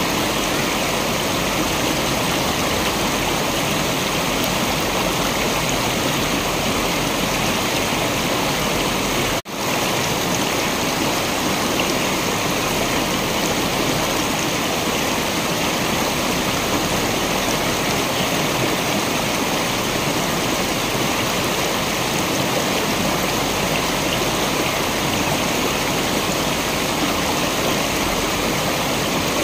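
Waterfall: steady rushing water, with a brief dropout about nine seconds in.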